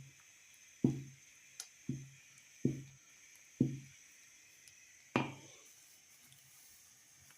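Five dull knocks, unevenly spaced over about four and a half seconds, each dying away quickly; the last is the loudest.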